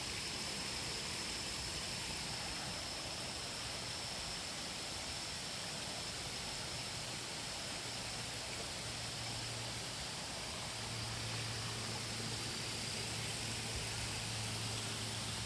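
Steady rush of water flowing through the terraces of a mountain-stream wasabi field. A low hum joins about eight seconds in and holds steady from about eleven seconds.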